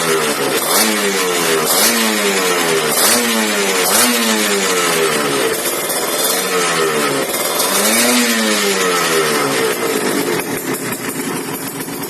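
Kawasaki Ninja 150 two-stroke single-cylinder engine breathing through an aftermarket Creampie expansion-chamber exhaust, blipped repeatedly with short revs about once a second and one longer rev, then settling back to idle near the end. The crisp, tinny two-stroke note is what the pipe is fitted for.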